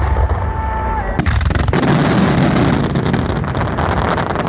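Aerial fireworks going off: a loud bang about a second in, followed by a dense crackling of many small bursts.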